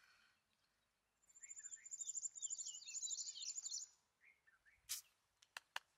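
A songbird singing a rapid, trilled phrase of high chirps with quick falling notes, lasting about three seconds, followed near the end by a few sharp clicks.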